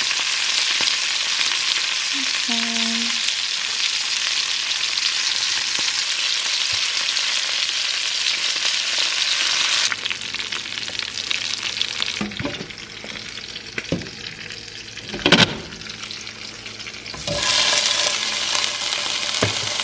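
Steaks searing in olive oil in a cast-iron skillet with garlic and rosemary, a loud, steady sizzle. About halfway through it drops abruptly to a quieter sizzle broken by a few knocks of utensil or pan, the loudest a sharp knock a few seconds later, and the loud sizzle returns near the end.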